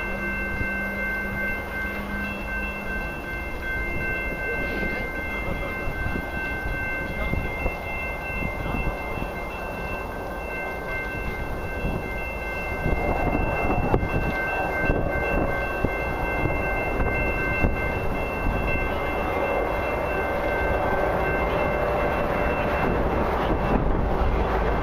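Approaching diesel-hauled CN freight train, its low rumble growing louder from about halfway through as the lead locomotives near. A steady high-pitched chord of tones sounds over it and fades out near the end.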